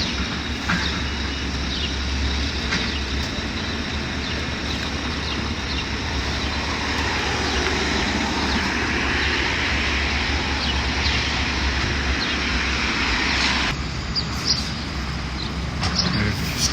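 Excavator running steadily with a low rumble, with scattered knocks and crunches of debris as it clears out a building during demolition.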